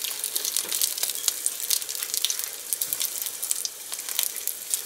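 Onion, garlic and dried guajillo chiles sizzling in olive oil over low heat: a steady fine crackle with many small pops.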